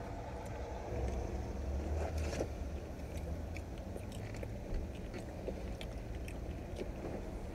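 Close-up chewing and biting, with small crunches and clicks of food being eaten and packaging handled, over a low steady rumble.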